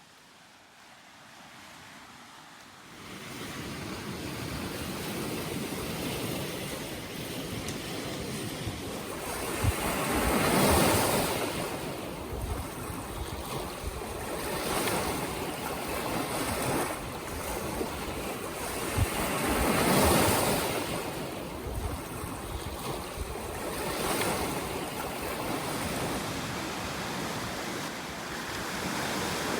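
Lake Superior surf washing onto the shore: a steady wash of waves that swells into louder breakers roughly every ten seconds, coming in suddenly about three seconds in. Wind buffets the microphone now and then.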